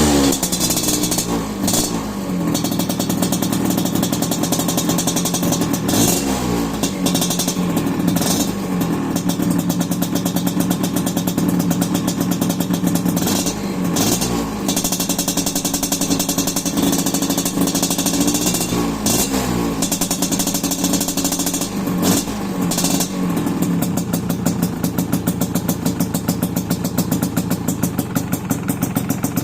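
Suzuki A100's two-stroke single-cylinder engine running through an aftermarket 'lobster' racing expansion-chamber exhaust. It idles fast, and every few seconds a short throttle blip sends the revs up before they fall back. The idle pulses evenly near the end.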